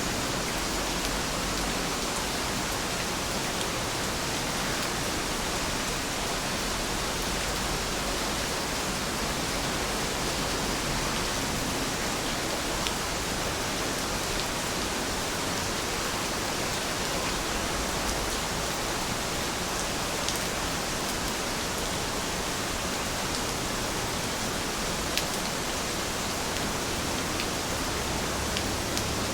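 Steady rain, an even hiss with a few faint drop ticks now and then.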